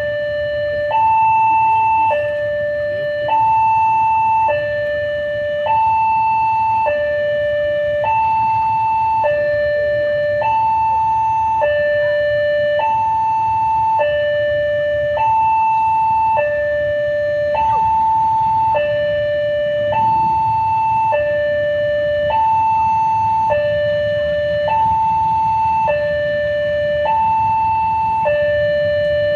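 Railway level-crossing warning alarm sounding a steady two-tone alternation, a lower and a higher note each held about a second, the signal that the crossing is closing for an approaching train. A low rumble runs underneath.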